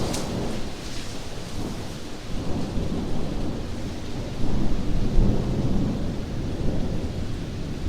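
Thunder rumbling over a heavy downpour, the rumble swelling loudest about halfway through, with a short sharp crack right at the start.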